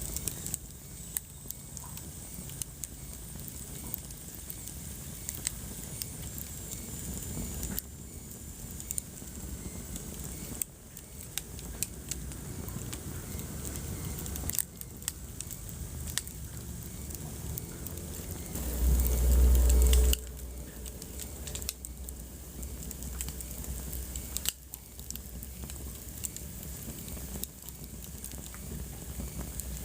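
Wood fire crackling in a fireplace: irregular sharp snaps and pops over a soft steady hiss. About two-thirds of the way through, a deep low rumble lasting a little over a second is the loudest sound.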